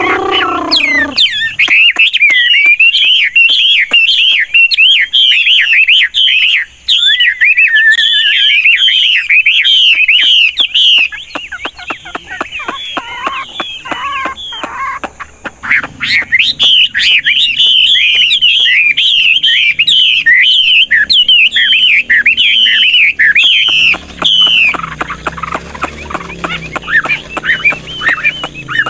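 Chinese hwamei (họa mi) singing a loud, rapid, continuous song of varied whistled phrases, with a brief break of softer notes midway and quieter notes near the end.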